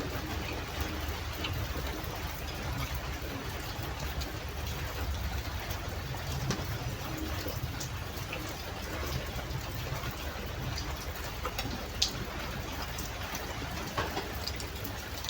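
Steady rain hiss, with scattered short clicks and taps over it, the sharpest about twelve seconds in.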